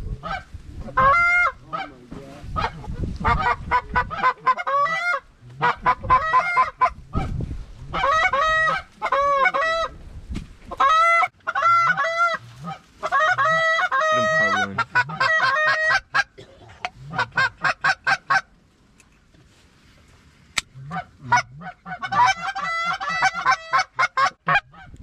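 Goose honks and clucks, loud and in quick rhythmic runs, with a short lull about three-quarters of the way through.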